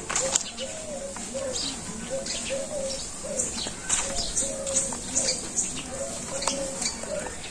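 Birds calling: a steady run of low, repeated cooing notes, two or three a second, with short high chirps or scrapes over them. A single sharp click near the start.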